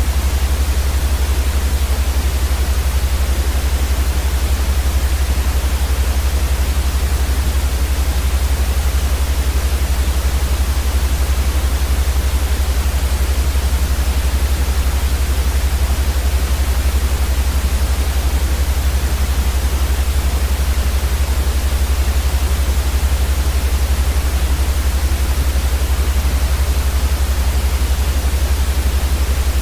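Steady, unchanging white noise for sleep: an even hiss across the whole range with a strong low rumble underneath.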